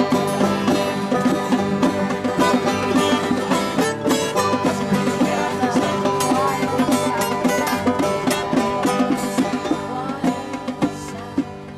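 Live acoustic band playing a fast one-chord groove: banjos and guitars strummed hard, with dense rapid picking. The music starts to die away near the end.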